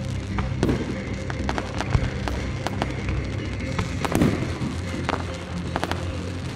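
Fireworks going off over loud music played through a sound system: a run of sharp bangs and crackles, with a heavier boom about four seconds in.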